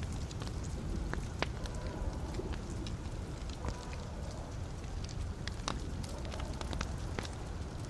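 Wood fire burning in a fireplace, with a steady low rumble of flame and scattered sharp crackles and pops from the logs.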